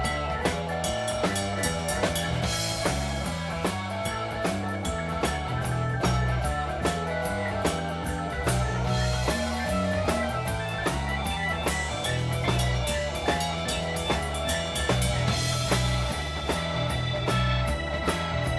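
A band playing an instrumental break on drum kit, electric guitar and bass, with a steady beat and a moving bass line.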